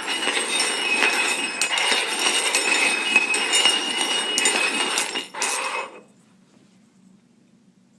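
Cups being slid and shuffled around on a table, clinking and scraping, in a shell game. The clatter stops about six seconds in.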